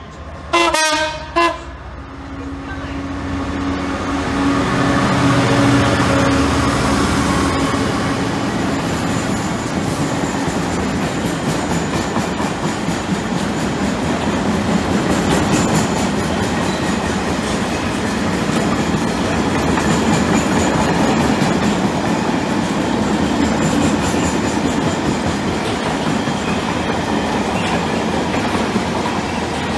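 A Class 66 diesel locomotive sounds two short horn blasts about a second in. Its EMD two-stroke V12 engine then rumbles past, louder for several seconds. A long rake of curtain-sided freight wagons follows, rolling steadily by with the wheels clicking over the rail joints.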